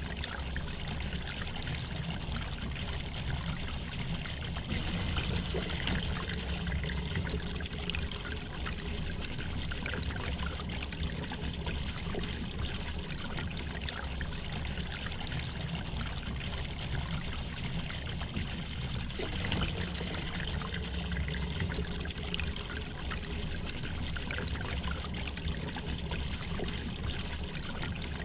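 River water flowing and trickling steadily over stones, an even rushing with small splashes and gurgles.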